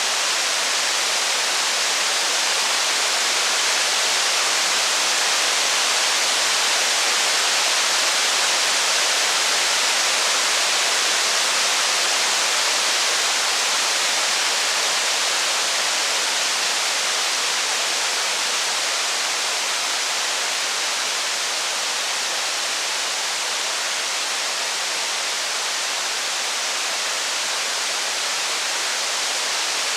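Steady rain, an even unbroken hiss with no thunder or fire crackle standing out.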